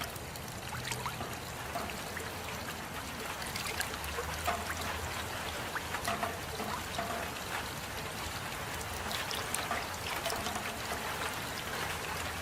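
Steady rain falling, a constant hiss scattered with many small, sharp drop ticks.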